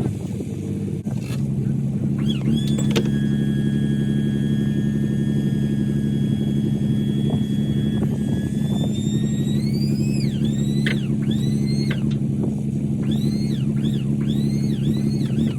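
Vehicle engine idling steadily with a low hum. In the second half, high whistling sounds rise and fall repeatedly over it.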